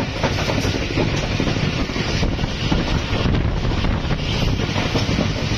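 Passenger train running at speed on newly laid track: a steady rumble of wheels on rail, mixed with heavy wind on the microphone at an open carriage door.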